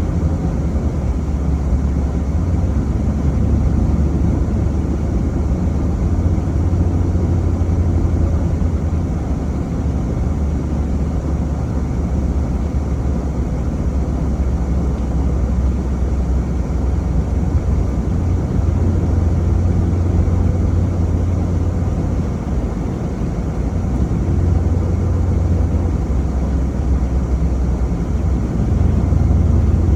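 Steady low rumble of a vehicle driving along a road, engine and tyre noise running without a break.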